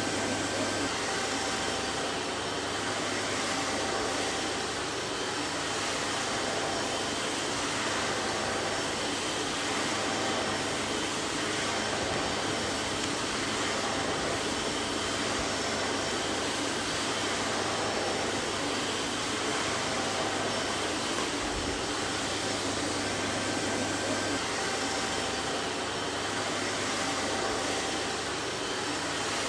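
Vacuum cleaner running steadily, a constant rushing whir with a faint low hum and a few thin steady tones.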